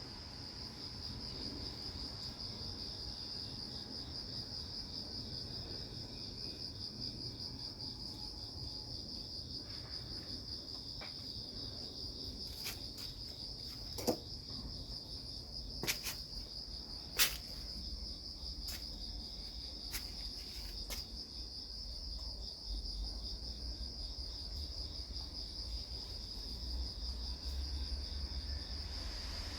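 Steady high-pitched trill of night insects. A few short, sharp clicks stand out in the middle.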